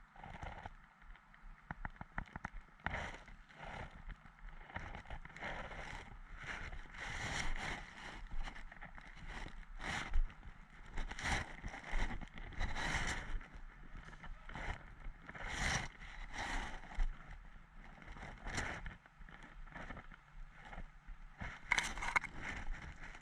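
Footsteps and gear rustling while moving through woodland undergrowth: irregular crunching and brushing, roughly one step a second, with a quick run of small clicks about a second in.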